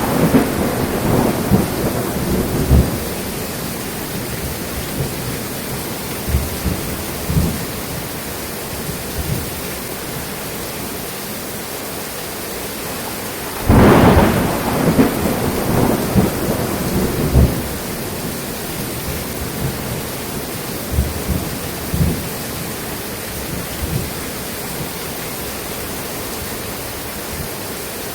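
Steady rain falling during a thunderstorm. About halfway through a loud thunderclap breaks out and rumbles on for several seconds, and the rumble of an earlier clap is fading at the start.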